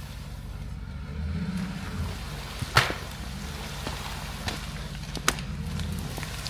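A vehicle engine idling low and steady, with two sharp knocks about two and a half seconds apart and a fainter one between them.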